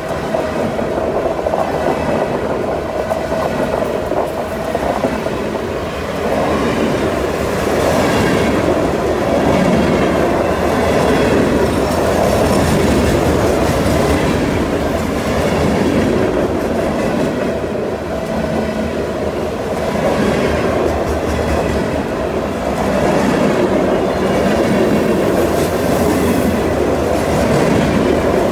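Covered hopper cars of a freight train rolling past close by on a curve: a steady rumble and clatter of steel wheels on rail, with a thin wheel squeal at times.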